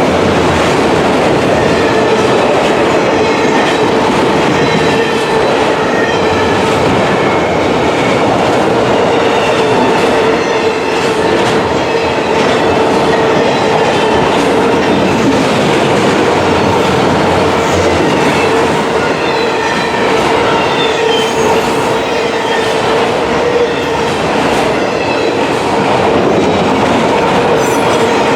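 Freight train cars rolling past steadily, wheels running on the rails with a continuous rumble and faint high wheel squeal.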